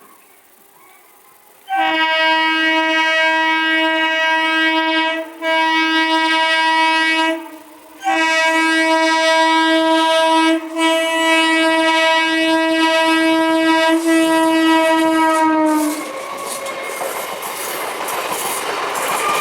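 Indian Railways electric train's horn sounding one long, steady single-pitch blast starting about two seconds in, broken by two brief gaps. Near the end the horn stops and the train passes, its wheels clattering over the rail joints.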